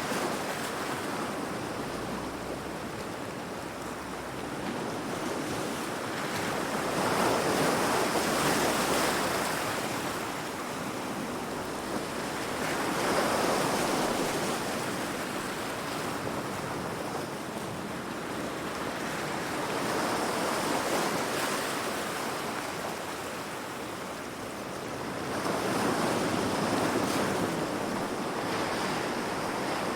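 Heavy ocean waves breaking against rocks, a continuous wash of surf that swells with each breaking wave, about every six seconds.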